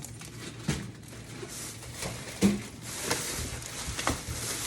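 Plastic grocery bags and packaging rustling and crinkling as items are handled, with a few light knocks.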